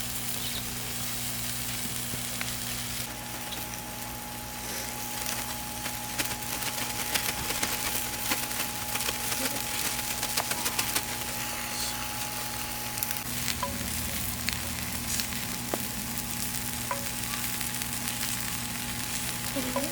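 Food sizzling in a cast-iron Dutch oven over a wood fire: a steady frying hiss dotted with small pops, growing busier a few seconds in.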